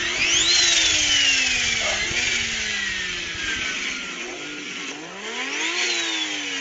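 Car engine revved through its exhaust, twice, with a short blip between: each time the pitch climbs quickly and then sinks slowly back as the revs fall.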